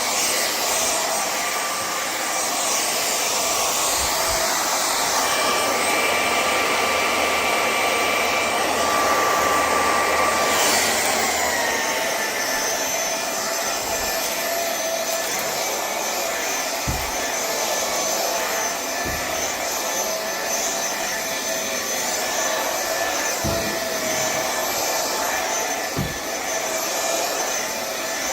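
VACLAB cordless stick vacuum cleaner running, with a steady motor whine and air rush as it vacuums carpet. About ten seconds in, the whine drops slightly in pitch and settles lower. A few soft knocks come in the second half.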